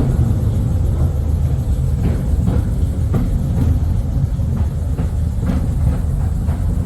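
Small underground railway train running through a tunnel, heard from aboard: a steady low rumble with sharp clicks about every half second.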